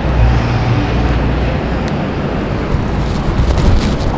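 Steady outdoor rumble of wind on the microphone mixed with traffic noise.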